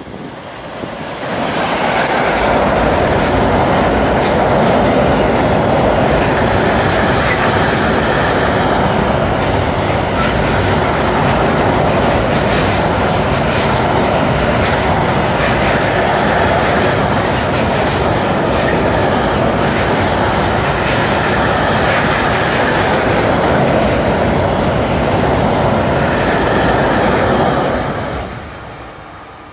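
Electric-hauled container freight train passing close by. The sound builds sharply about a second and a half in as the locomotive reaches the microphone. The loaded container wagons then roll past with a steady rumble and clatter of steel wheels on rail, which drops away quickly near the end as the last wagons go by.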